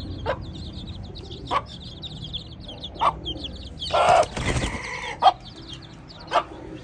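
Chickens: young chicks peeping in a quick, continuous run while adult hens give short single clucks every second or so, with a louder burst about four seconds in.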